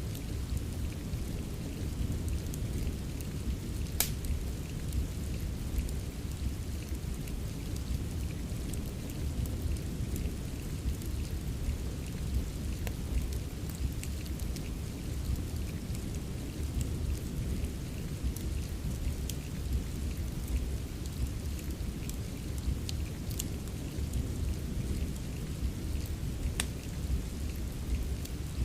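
Steady rain with a deep, low rumble, layered with a wood fire whose sharp crackles and pops come at scattered moments: a strong pop about four seconds in and another near the end.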